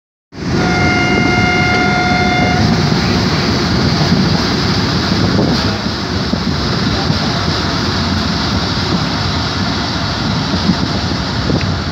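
Steady running noise of a passenger train, heard from a coach window. A locomotive horn sounds one steady note for about two seconds, about half a second in.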